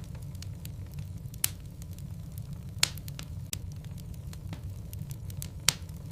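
Wood fire burning in a fireplace: a steady low rumble of flames with a scatter of small crackles and three sharp, loud pops from the burning logs.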